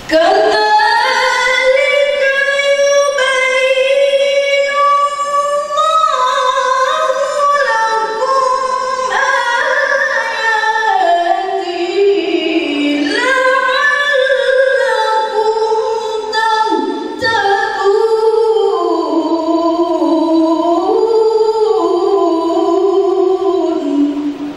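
A woman reciting the Qur'an in the melodic tilawah style: one unaccompanied voice holding long, ornamented notes that step and glide between pitches, with a brief breath about two-thirds of the way through.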